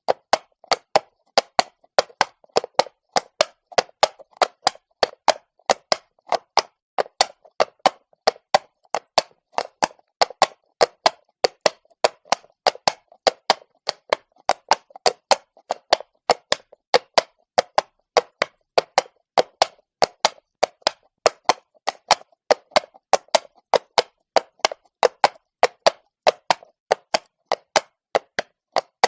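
A horse's hooves walking on stone: a steady clip-clop of sharp, hard knocks, about three strikes a second.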